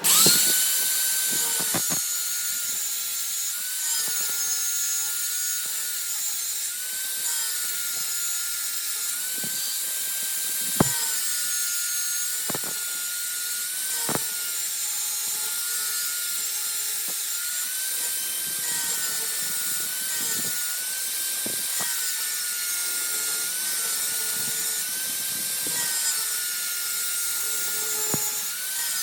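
A workshop power tool or machine starts abruptly and runs with a steady high whine and hiss, its pitch dipping slightly now and then, with scattered sharp clicks and knocks.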